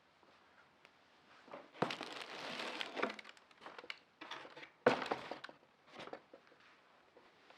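Irregular crinkling and rustling from something being handled, broken by a few sharp knocks, the loudest about five seconds in.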